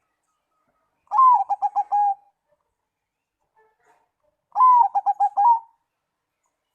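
Zebra dove (perkutut) singing two cooing phrases about three seconds apart, each opening with a longer falling note and running into a quick string of about five short, even coos.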